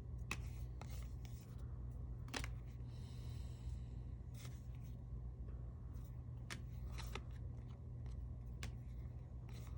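Trading cards being handled and slid past one another: scattered light clicks and ticks, with a brief papery rustle about three seconds in, over a steady low hum.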